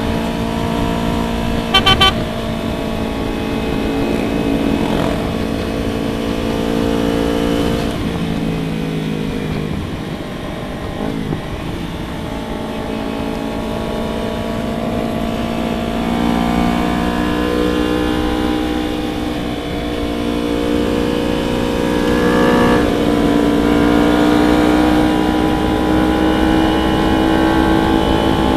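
Motorcycle engine running while riding, its pitch rising and falling steadily with throttle and gear changes, over wind rumble on the microphone. A brief, sharp pulsed burst about two seconds in is the loudest moment.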